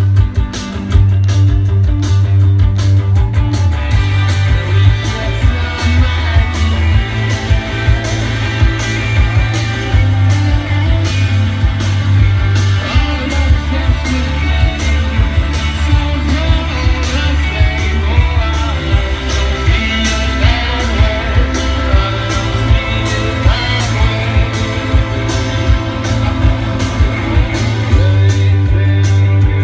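Live rock band playing: electric guitars, bass and a steady drum beat, with singing.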